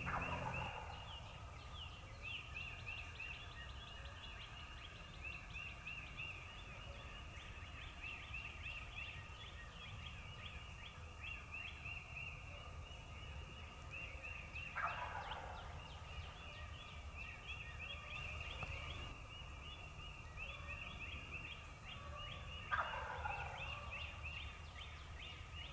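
Wild eastern turkey gobbler gobbling from its roost: three rattling gobbles, one right at the start, one about 15 seconds in and one about 23 seconds in, over a steady chorus of chirping songbirds.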